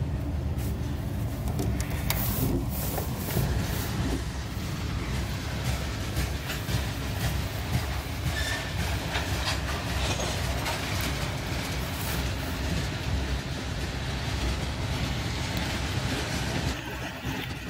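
Freight train cars rolling past on the track: a steady rumble and rattle, with the wheels clicking over the rail joints.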